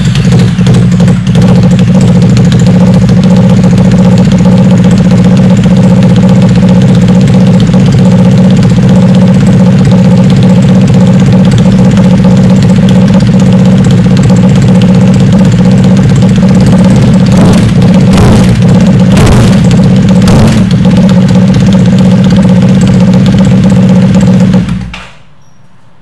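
Triumph Thruxton parallel-twin engine running through a D&D full-race TT open exhaust, loud and steady just after starting, then cutting off suddenly near the end.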